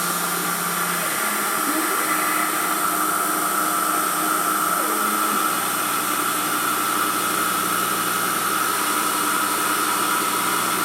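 Emco F1 CNC milling machine running its drilling cycle, the spindle turning a 2.8 mm drill at 2000 RPM through a cast aluminium engine pan, giving a steady machine whine. The lower hum changes about a second in and again about halfway through as the machine moves.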